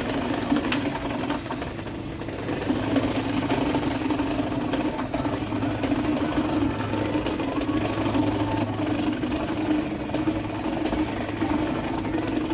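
Grease-trap pumping machinery running with a steady, unbroken drone.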